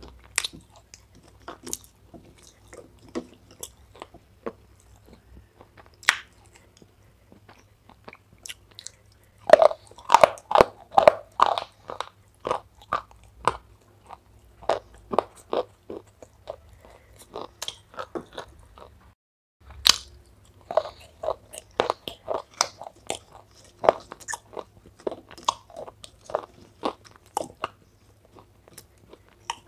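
Close-up eating sounds of a person chewing soaked clay: irregular crunchy bites and chewing clicks, coming in denser, louder runs about a third of the way in and again after a brief gap.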